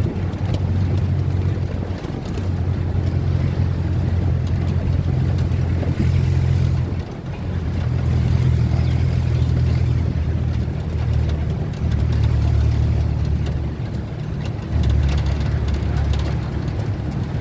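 Low, steady rumble of a moving road vehicle, with its level stepping up and down every few seconds.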